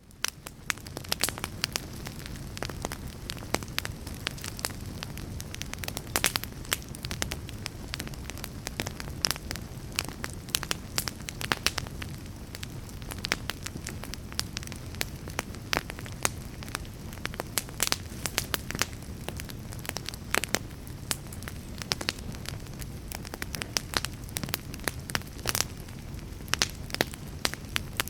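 Fire crackling: a steady low rumble of flames with frequent sharp pops and snaps. It fades in from a brief gap in the first second.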